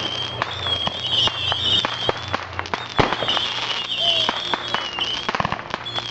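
Fireworks going off: a rapid string of sharp bangs and crackles, with a wavering high whistle that comes and goes several times.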